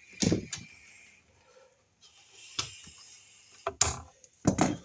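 Scattered knocks and clicks of hand work on house wiring, with a faint rustle in the middle and the loudest knocks near the end.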